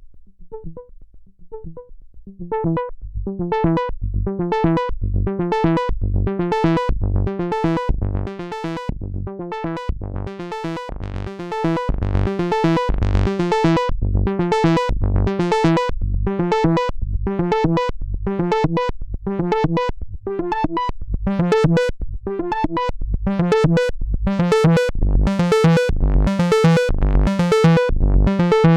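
Moog Sub Phatty analog monophonic synthesizer playing a fast repeating sequence of short notes, with a deep bass line under bright, buzzy leads. It starts quietly and gets louder about two and a half seconds in, and the tone grows brighter and fuller as it goes on.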